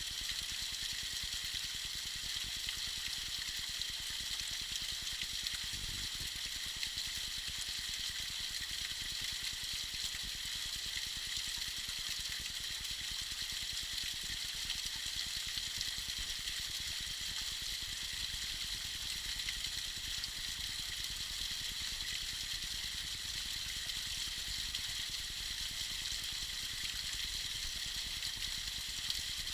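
Small icy waterfall splashing and trickling steadily: an even, high hiss of falling water.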